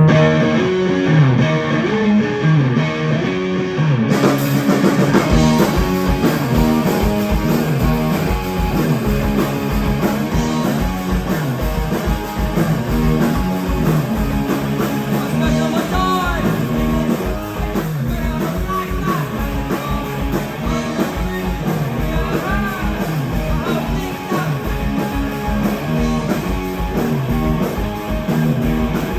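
Rock band playing live: a guitar riff alone at first, then drums with cymbals and kick drum come in about four seconds in and the full band plays on.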